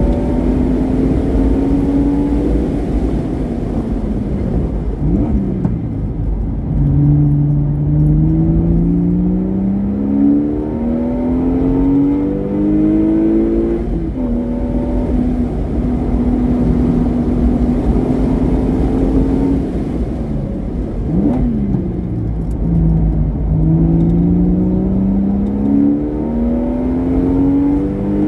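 Porsche Boxster S flat-six with a modified exhaust, pulling hard with its pitch climbing in steps through upshifts. The revs fall sharply three times as it slows, with a quick rev blip about five and about twenty-one seconds in, and hold steady for several seconds past the middle.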